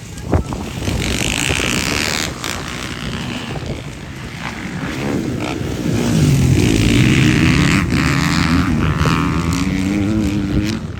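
Motocross bike engines revving, their pitch rising and falling, with one bike growing loud and close from about halfway through. A sharp knock sounds right at the start.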